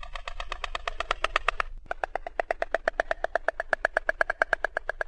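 White stork clattering its bill: a fast, even run of dry knocks, about nine a second, with a short break about two seconds in.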